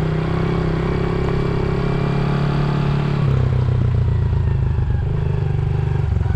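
Dirt bike engine running steadily while riding, its note stepping lower about three seconds in.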